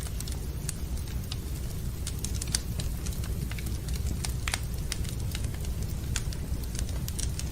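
Wood fire crackling in a fireplace: irregular snaps and pops, a sharper one about two and a half seconds in, over a steady low rumble.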